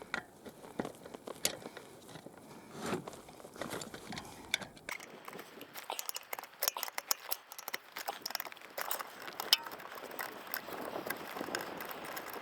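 Irregular light clicks and crackles, growing denser about halfway through.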